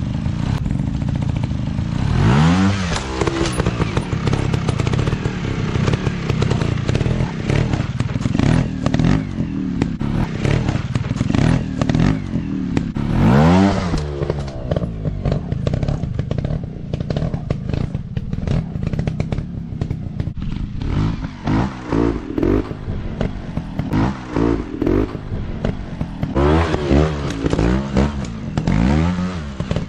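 Dirt bike engines running and revving hard in repeated throttle bursts, the pitch sweeping up sharply about two seconds in, again around thirteen seconds, and in a quick series of blips near the end. Clattering and scraping sound alongside.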